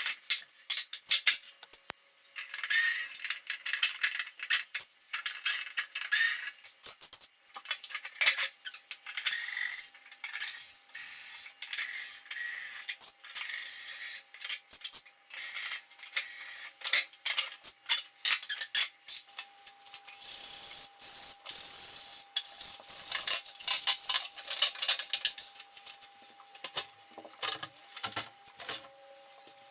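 Sandpaper rubbing on the wooden pieces of a toy chest being sanded by hand, in repeated short strokes with occasional clicks and knocks.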